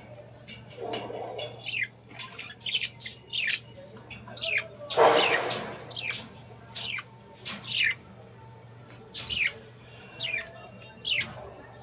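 Budgerigars chirping: a string of short calls that each fall quickly in pitch, one or two a second, with one louder, harsher squawk about five seconds in, over a faint steady low hum.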